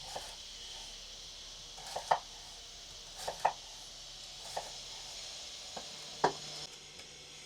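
Knife strokes knocking on a cutting board: about eight irregular knocks, some in quick pairs. A steady high hiss lies underneath and cuts off near the end.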